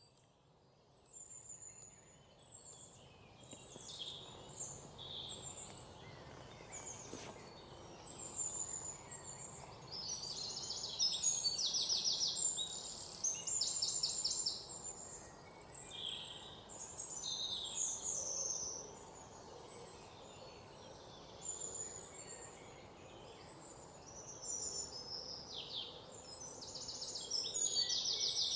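Several birds singing at once, with short chirped phrases and rapid trills, busiest midway and again near the end, over a steady rushing background noise.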